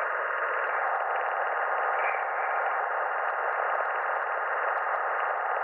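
Sonified space-probe data from the Juno spacecraft's Waves instrument as it enters Jupiter's magnetosphere: a steady, even hiss of noise with faint held tones inside it.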